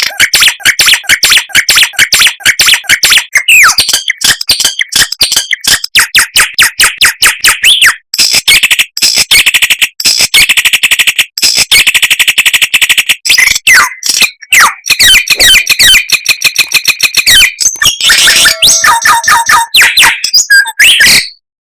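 Songbird singing a loud, rapid, varied song of chirps, fast trills and quick up-and-down whistles, with a few short breaks.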